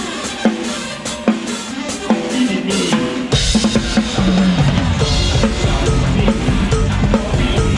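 Live band music led by a drum kit: crisp drum and cymbal hits at first, then the bass and full band come in heavily about three seconds in.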